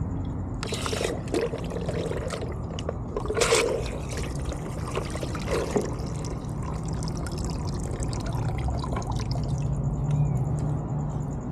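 Water pouring and trickling for the car wash, with two short louder splashing rushes in the first few seconds, over a steady low hum.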